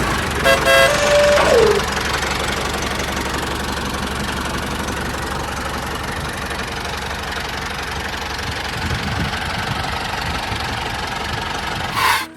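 Engine of a mini tractor running steadily, with a brief pitched sound that slides down in pitch about a second in. The engine sound cuts off abruptly at the end.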